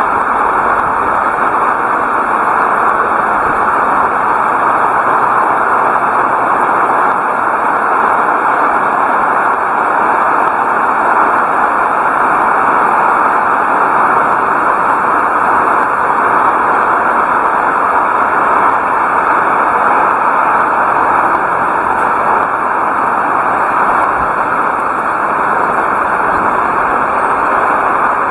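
Very heavy rain pouring down steadily, a dense unbroken hiss.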